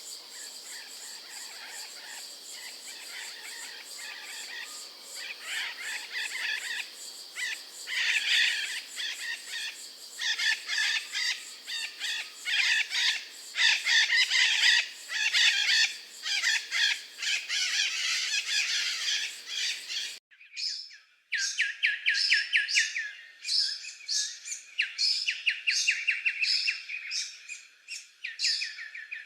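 Several birds chirping and calling at once, with dense overlapping calls. About twenty seconds in, the sound changes abruptly to a different set of birds giving fast repeated trills.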